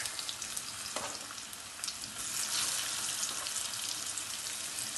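Egg-and-flour-coated stuffed zucchini flowers frying in hot olive oil in a frying pan: a steady sizzle that grows louder about two seconds in. One light click about a second in.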